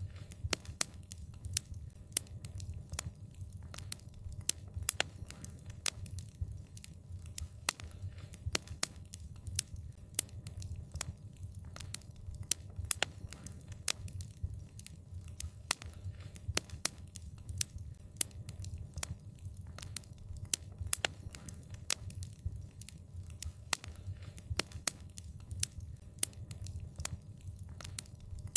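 Wood fire burning: a steady low rumble of the flames with frequent sharp, irregular crackles and pops.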